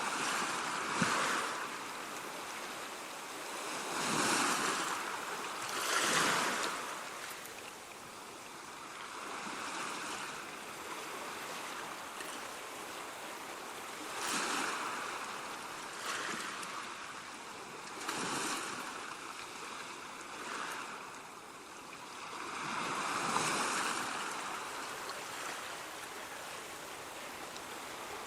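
Sea waves breaking and washing on a shore, a steady hiss of surf with swells every few seconds as each wave comes in and draws back.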